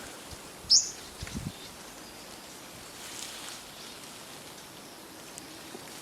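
Forest ambience with one short, loud, high-pitched bird chirp about a second in, followed by a few soft low thumps.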